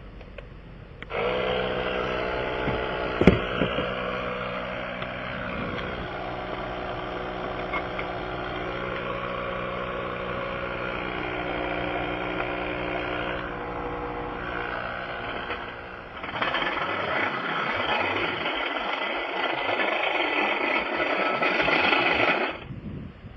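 A portable air compressor's small motor starts about a second in and runs steadily with an even hum, filling the low tire; a single sharp knock comes about two seconds after it starts. From around two-thirds of the way through, the sound turns rougher and noisier, without the steady hum.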